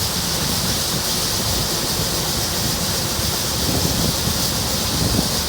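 Steady rushing noise of harvest machinery running in the field, even throughout, with no distinct beats or tones.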